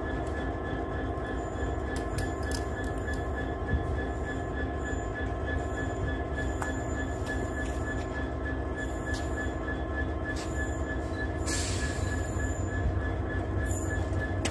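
Class 70 diesel locomotive hauling a heavily loaded log train slowly past: a steady engine drone under a high, thin whine, with scattered clanks and knocks from the wagons. A short hiss comes about three-quarters of the way through.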